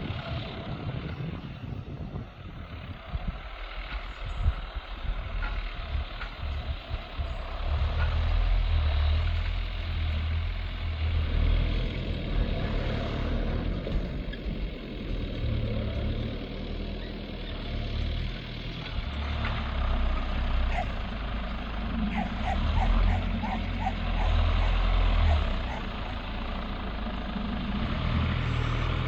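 New Holland TL100 tractor engine running under load while ploughing, its low rumble swelling and easing.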